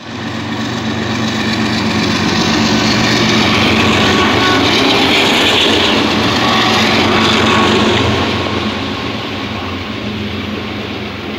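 Norfolk Southern diesel freight locomotives passing close beneath, with a steady engine drone and wheel noise that is loudest as they go by, then the lighter rumble of intermodal flatcars carrying trailers running over the rails.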